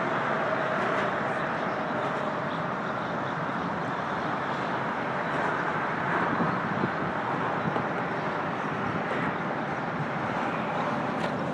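Steady rushing of interstate highway traffic on the I-77 bridge overhead, a continuous even din of tyres and engines with no single vehicle standing out.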